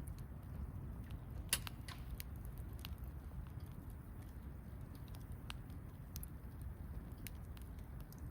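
Wood campfire crackling: scattered sharp pops and snaps, the loudest about a second and a half in, over a low steady rumble of the burning fire.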